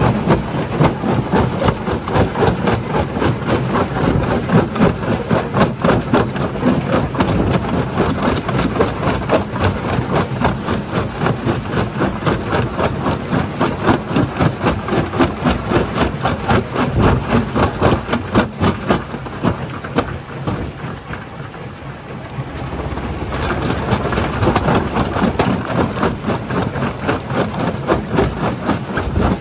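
Heavy diesel-powered machinery at a stone-crushing plant, running steadily with a rapid, even pulsing. The level drops briefly about twenty seconds in, then comes back up.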